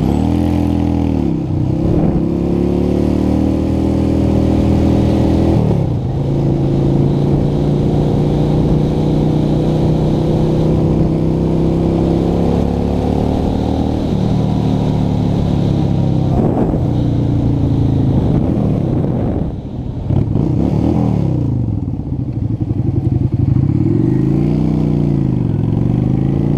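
Honda Shadow V-twin motorcycle engine pulling away and accelerating through the gears. Its pitch climbs, drops sharply at each shift (about 2 s, 6 s and 20 s in) and climbs again, then holds steady while cruising, with a brief fall and rise near the end.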